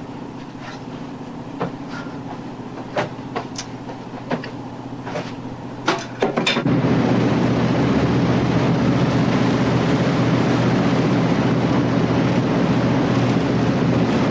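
Clinks of dishes and cutlery over a steady low ship's hum. About six and a half seconds in, a much louder, steady drone with rushing noise cuts in: a vessel's engines running underway.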